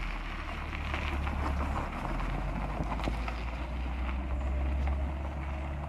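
2005 BMW R1200GS boxer-twin engine idling steadily, a constant low hum.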